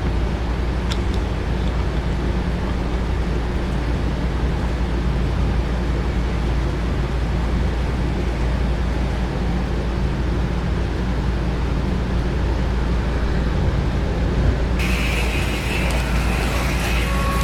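HO-scale model layout running: a steady low rumble of small electric motors and wheels on track. Near the end it switches suddenly to a brighter, higher whirring with clicking.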